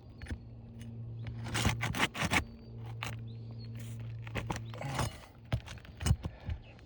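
Metal shingle-removal tool scraping and prying under brittle asphalt shingles, with sharp clicks and knocks and a few short tearing scrapes as nails are worked loose. A steady low hum runs underneath.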